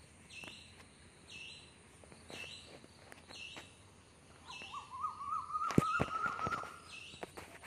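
A bird calling in the background: a short, high call repeated about once a second. From about halfway through, a wavering warble runs for around two seconds. A few sharp taps, the loudest sounds, come in a cluster shortly after it starts.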